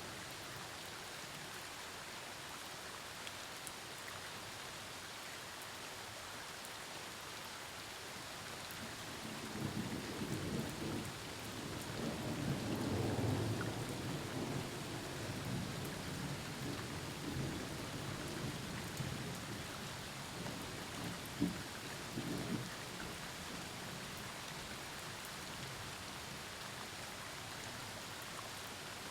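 Steady rain falling, with a long roll of thunder that builds about a third of the way in, peaks, and rumbles on for over ten seconds, ending with a couple of sharper cracks before it fades back to rain.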